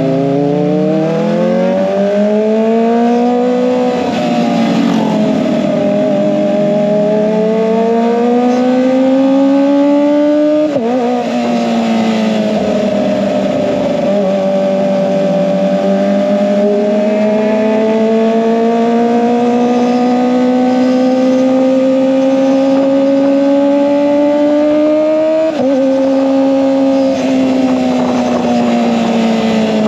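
Kawasaki ZX-25R's 249 cc inline-four engine breathing through an SC-Project aftermarket exhaust, running under load. Its pitch climbs slowly and steadily, then drops suddenly, about 11 seconds in and again about 25 seconds in, before climbing again.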